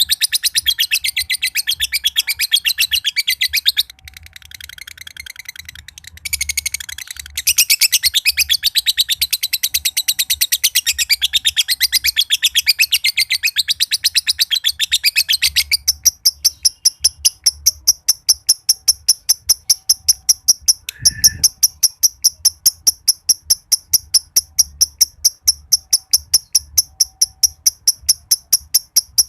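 A green lovebird giving a long 'ngekek': a fast, continuous high chattering trill that dips briefly a few seconds in, then changes about halfway through to a steady series of sharp, evenly spaced chirps, about three a second. One short knock sounds among the chirps.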